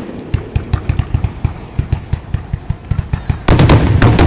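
Fireworks going off in rapid succession: a string of low booms, several a second, then about three and a half seconds in a much louder barrage of sharp cracks over continuous rumbling.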